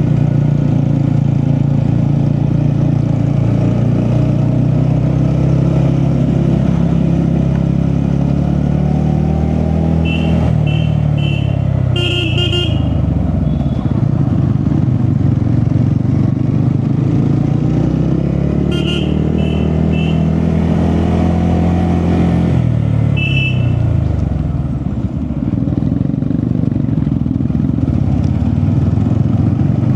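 TVS Ronin single-cylinder motorcycle engine running under way, its pitch dropping and climbing again twice with throttle and gear changes. Short, high horn beeps sound in quick clusters about a third of the way in, again about two thirds in, and once more shortly after.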